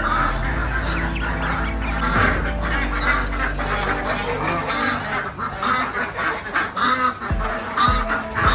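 Geese and ducks honking and quacking, repeated calls over music, with low thumps of a beat near the end.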